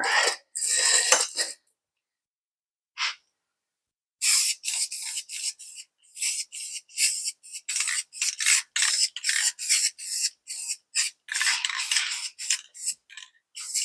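Aerosol spray-paint can hissing in short bursts, about two or three a second, from about four seconds in, with a couple of single bursts before that.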